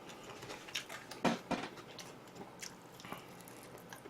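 A person chewing and biting food close to the microphone, with a series of short, sharp mouth clicks and bites; the loudest comes a little over a second in.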